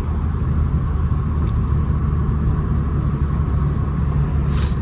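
Straight-piped, tuned Mercedes-Benz C350's 3.5-litre V6 running at a steady cruise, a constant low exhaust drone, with a short hiss near the end.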